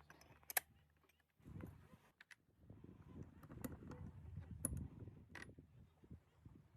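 A few sharp clicks and taps over a faint low rumble, the loudest about half a second in.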